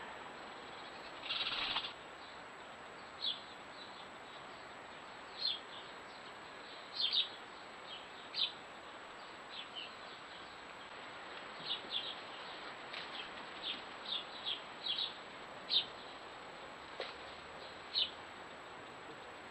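Garden birds chirping in short, separate high notes, a dozen or more scattered through, with a brief, harsher and noisier call about a second in.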